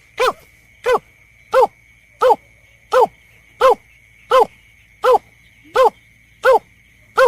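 Bird-lure recording of a berkik (belkek) call: a short, bark-like note that rises briefly and then falls, repeated steadily about every 0.7 s, around ten times. A faint steady high whine runs beneath it.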